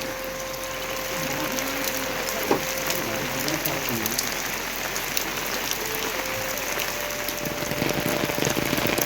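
Heavy rain falling: a steady hiss with scattered drop patter that grows denser near the end. A thin steady tone sounds underneath, breaking off partway through and coming back later.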